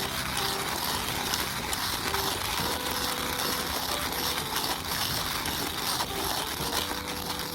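Wood campfire burning, a steady hiss dotted with many small crackles and pops, over a few soft held low tones.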